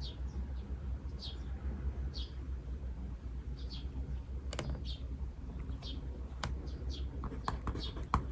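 A small bird chirping short high notes about once a second, over a steady low hum. Sharp taps of a pen at a desk come in once or twice midway and then in a quicker run near the end.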